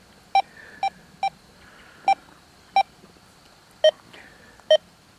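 XP Deus 2 metal detector giving short, irregular tone beeps as the coil is swept over a nail lying above a small gold ring. The first five beeps are a little higher in pitch and the last two, near the end, lower.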